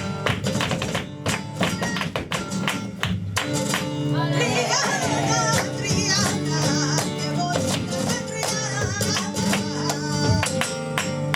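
Live flamenco tangos: flamenco guitar and rapid sharp percussive strikes throughout, with a singer's wavering voice coming in about three and a half seconds in.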